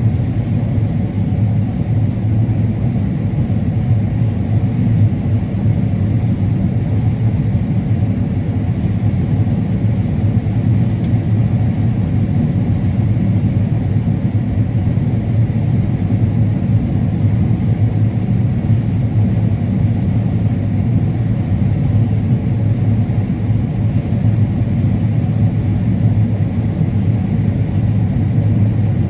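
Combine harvester running steadily while harvesting corn: a continuous low drone that holds constant.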